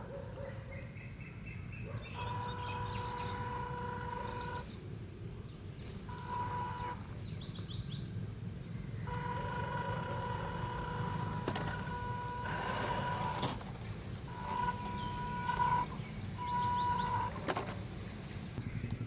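Small electric motors of radio-controlled cars whining in runs that start and stop several times: a steady tone that cuts in and out, with a few short high falling chirps and a low rumble underneath.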